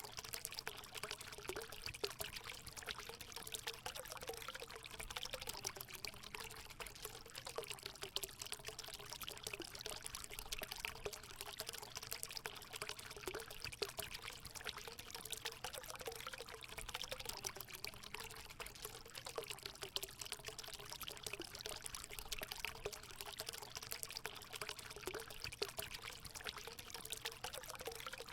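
Water running and splashing steadily into a hot spring pool, a continuous pouring trickle with many small splashes.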